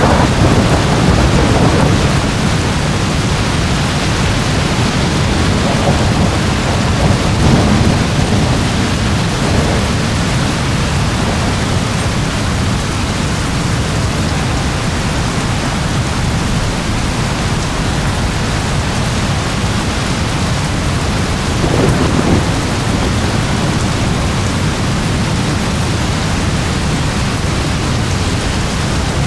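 Steady heavy rain with thunder rumbling underneath, the rumbles swelling several times, most strongly near the start and again about twenty-two seconds in.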